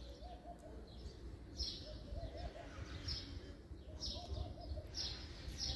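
Birds calling: a low, wavering call of a few quick undulations repeated about every two seconds, with short high chirps in between.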